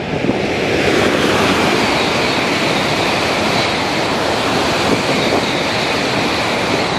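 Tokaido Shinkansen bullet train passing at high speed: a loud, steady rush of air and running noise with a strong hiss on top, building in the first second and falling away near the end.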